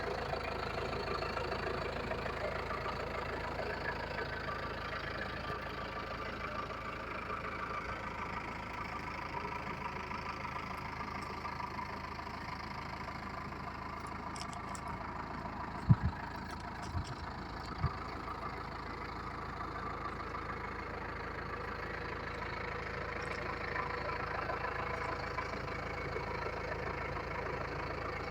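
Yanmar L50SS single-cylinder air-cooled diesel engine idling steadily. About two-thirds of the way through, three brief low knocks stand out above the running.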